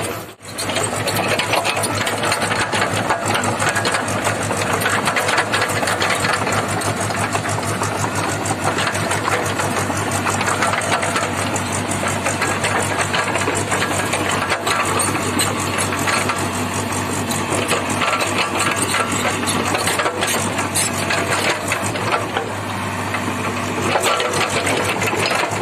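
JCB JS81 excavator's diesel engine running steadily under work, with a fast, even clatter.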